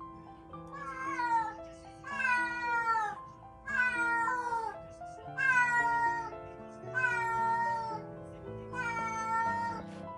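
A cat meowing six times in a row, each call long and falling in pitch, over background music of held notes.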